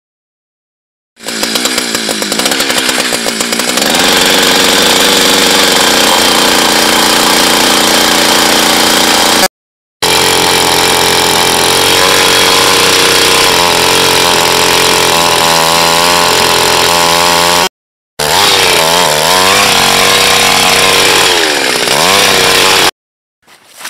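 Gas-powered ice auger engine starting about a second in, revving up over a few seconds, then running loud and steady at high speed as it bores through thick lake ice. Its speed wavers near the end, and the sound cuts off abruptly in a few brief gaps.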